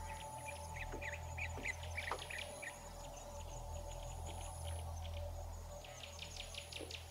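Small birds chirping and twittering in quick clusters over a steady low hum.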